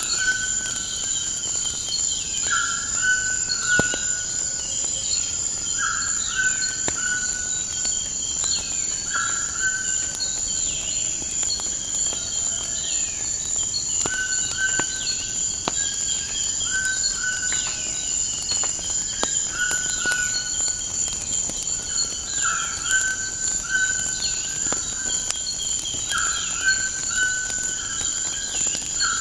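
Nature ambience: a steady high chorus of crickets, a bird repeating a short call of a few notes about every three seconds while other birds chirp with quick falling notes, and scattered crackles of a wood fire.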